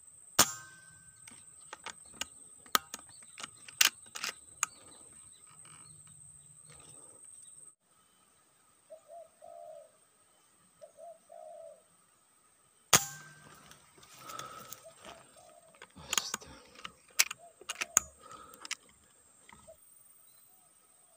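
Spotted dove cooing in two short phrases, with sharp clicks and knocks, two of them loud, about half a second in and about thirteen seconds in, each followed by clusters of smaller clicks.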